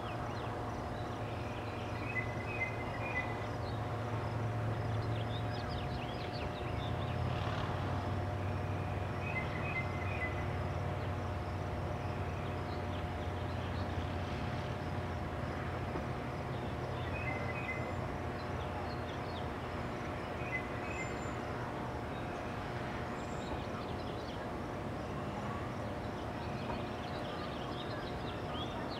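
Steady low rumble and hum of outdoor background noise, with short, high double chirps from a bird every few seconds.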